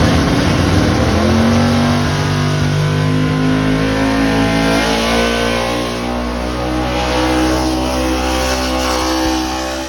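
Engine of a tractor or truck in a pull running at high, steady revs, easing off slightly after about six seconds.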